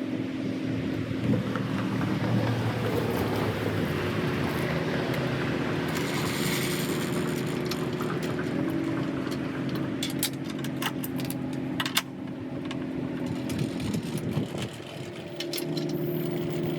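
Tow vehicle's engine running steadily while pulling the boat trailer out of the water, its pitch shifting about halfway through. Sharp clicks and knocks in the second half.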